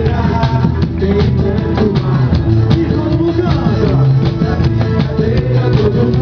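Live forró band music with a steady drum beat, guitar and some singing.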